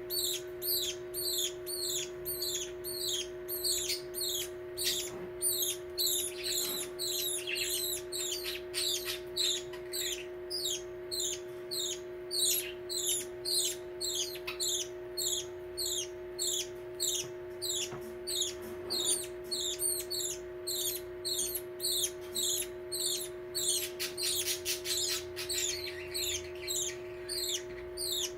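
Baby budgerigar chicks giving repeated begging calls: short, high, falling cheeps about twice a second, without pause, over a steady low hum.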